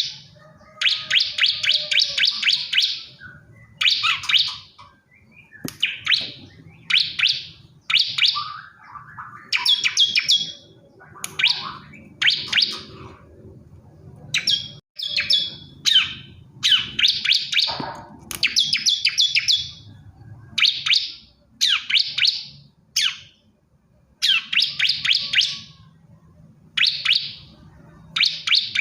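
Male bar-winged prinia (ciblek kristal) singing: repeated bursts of rapid, high, ticking trill notes, each about a second long, coming every second or two.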